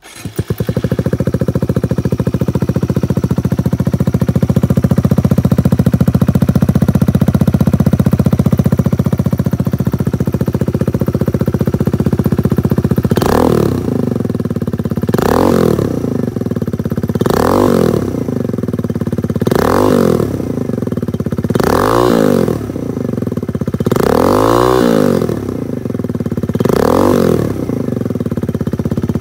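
Kawasaki Z125 PRO's single-cylinder four-stroke engine, breathing through an M4 full exhaust with a Q3 Stage 2 quiet insert, starts up and idles steadily for about thirteen seconds. It is then revved in seven short blips, about one every two seconds, each rising and falling back to idle.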